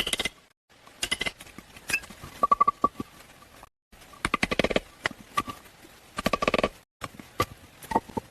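Rapid clicks and knocks in short clusters, some with a brief ring, broken by sudden dead gaps.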